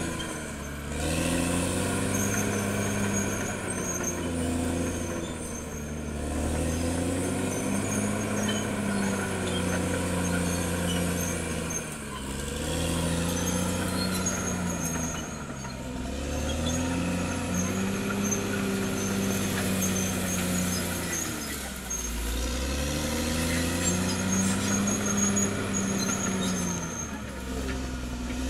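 Caterpillar D6R XL bulldozer's diesel engine working, its note rising and falling over and over, about every five to six seconds, as the load comes on and eases off. Faint high squeaking runs over the engine.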